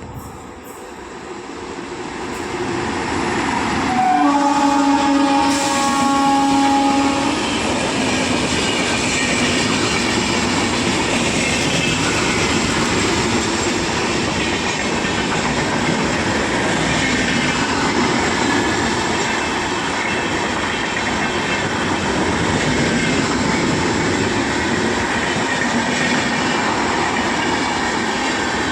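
An express train approaching and running through the station. About four seconds in, its locomotive sounds one horn blast of about three seconds, starting on a brief higher note. Then comes the steady loud rumble and clatter of the coaches going by.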